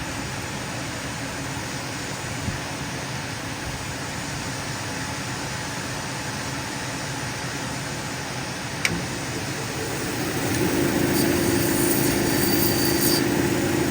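Cabbing machine running steadily, its wheel turning with an even whirr. About ten seconds in the sound grows louder with a steady hum as the opal is worked against the wheel. A single sharp click comes just before that.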